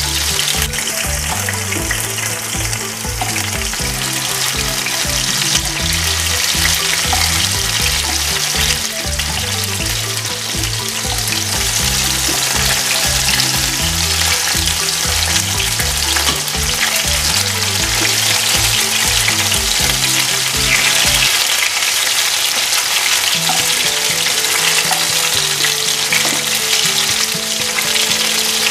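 Battered pork sticks shallow-frying in hot coconut oil in a pan: a steady, dense sizzle.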